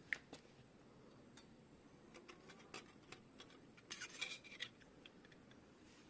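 Faint metallic clicks and clinks of engine parts and hand tools being handled during a motorcycle engine assembly, with a quick cluster of clinks about four seconds in.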